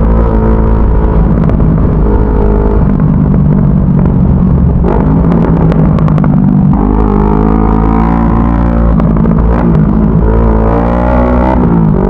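CFMoto 400NK motorcycle engine running under way. Its revs shift in steps a few times, and near the end they drop briefly and climb again.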